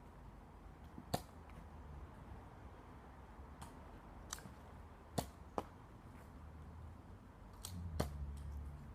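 Nerf blasters firing foam darts: a few sharp, scattered snapping pops, four of them loud, spread over several seconds, with a low rumble of movement near the end.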